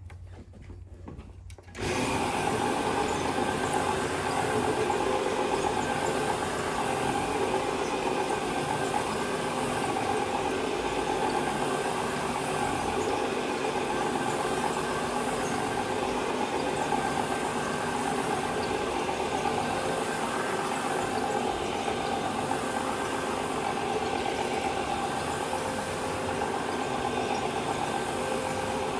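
An electric carpet-cleaning machine switches on abruptly about two seconds in and runs steadily, a motor hum with a held whine over an even hiss.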